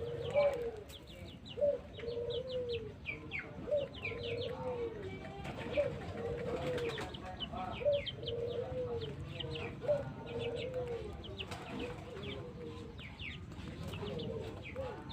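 Domestic pigeons cooing over and over. Each coo is a short note and then a longer arched one, repeating about every one and a half seconds, with the thin high chirping of small birds over it.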